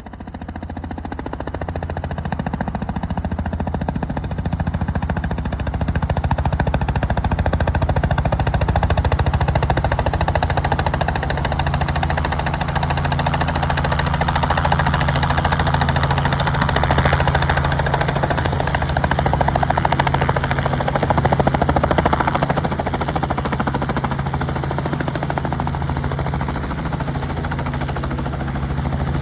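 Helicopter in flight: steady turbine and rotor noise with a low, pulsing rotor drone. It fades in over the first couple of seconds, then holds steady.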